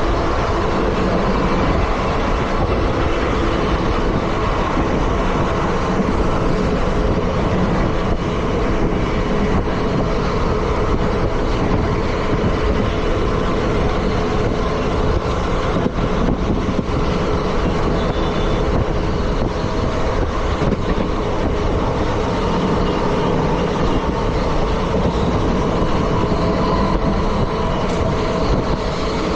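Indian Railways ICF passenger coaches running along the track: a steady, loud rumble and rail noise with a few faint held tones over it.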